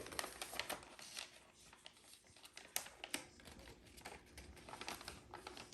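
A sheet of paper being handled and folded: faint rustling and crinkling with scattered sharp crackles, the loudest a little under three seconds in.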